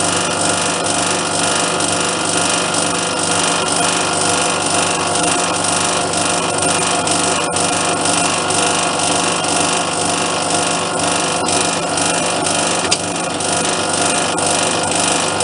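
Metal lathe running and taking a boring cut with a boring bar: a steady machining noise over the hum of the machine.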